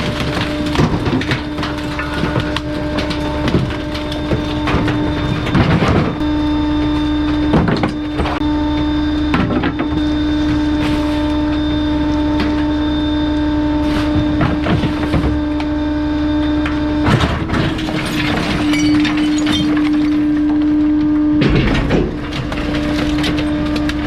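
Bulky-item garbage truck's hydraulic packer crushing a load: a steady humming whine, breaking off briefly twice, under repeated cracking and splintering of crushed wood.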